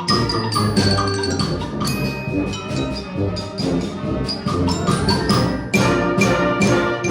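Community concert band playing a fast galop, with brass carrying the tune over percussion that strikes sharply on the beat.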